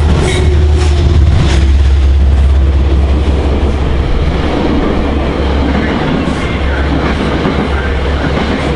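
A Metro-North P32AC-DM diesel locomotive passes close by with a steady low engine drone and a few sharp wheel clicks in the first second and a half. Then Metro-North electric multiple-unit cars roll past with steady wheel and rail noise.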